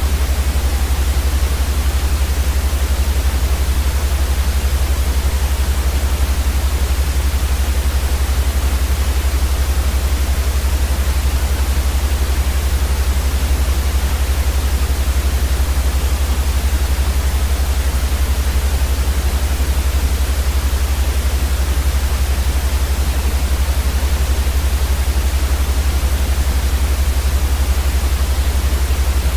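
Steady, unchanging white noise, a loud even hiss with a strong deep rumble underneath.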